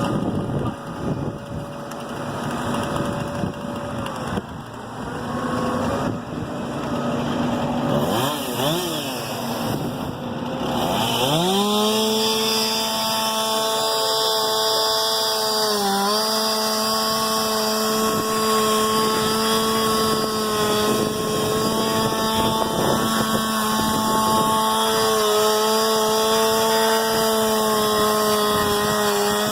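An engine runs with a steady hum, then about eleven seconds in a chainsaw revs sharply up and runs at a high, steady speed, dipping briefly a couple of times.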